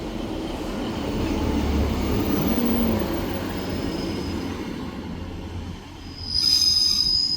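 Class 150 Sprinter diesel multiple unit rolling into the platform with a low rumble, then a loud high-pitched brake squeal starting about six seconds in as it slows.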